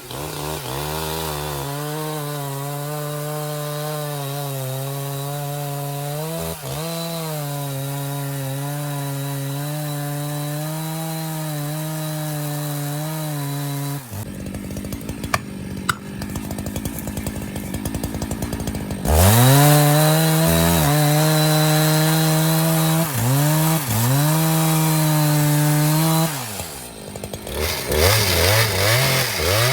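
Husqvarna 272 two-stroke chainsaw cutting up a downed maple. It is held steady at speed for about fourteen seconds, falls back to a rough idle, then revs up again with several brief dips. It drops back briefly near the end and revs up once more.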